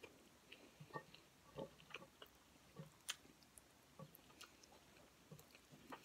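Faint, scattered chewing and small wet mouth clicks of a person eating kare-kare and rice by hand.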